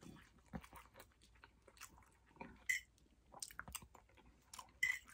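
A man chewing a mouthful of food with his mouth closed: faint, irregular wet clicks and smacks.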